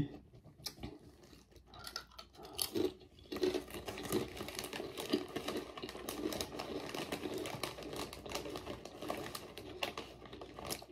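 Someone chewing a ridged potato chip with the mouth closed: a couple of faint clicks at first, then a steady run of soft crunching from about three seconds in.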